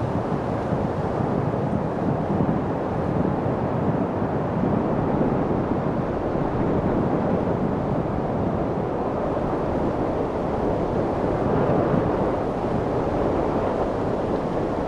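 Steady wind, a continuous even rushing with no gusts, breaks or separate events.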